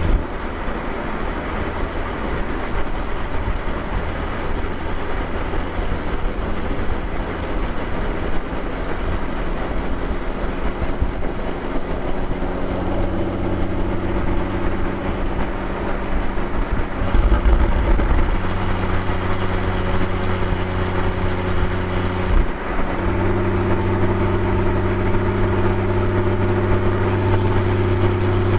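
Porsche 981 Boxster's 2.7-litre flat-six engine and exhaust running on the move. The note is uneven for the first dozen seconds or so, then settles into a steady drone, with a brief low thump about two-thirds of the way through.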